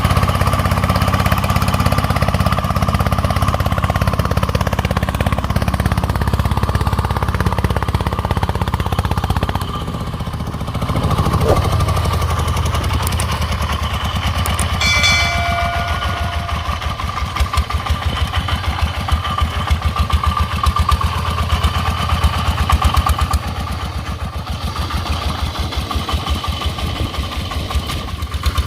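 Single-cylinder diesel engine of a công nông farm truck running; about ten seconds in the revs drop and its even firing beats become plain. A short pitched tone sounds about fifteen seconds in.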